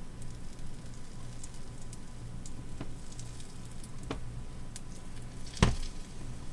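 Pancake batter sizzling in a cast iron pan, with scattered faint crackles over a steady low hum. A single sharp knock comes about five and a half seconds in.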